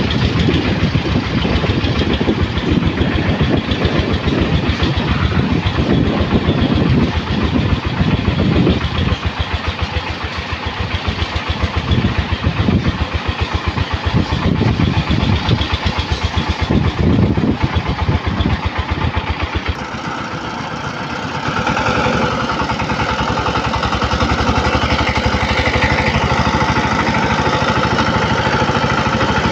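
Single-cylinder diesel engine of a bhutbhuti motor van running with a rapid, even firing beat. Its low end surges up and down for the first two-thirds, dips briefly about twenty seconds in, then settles into a steadier run.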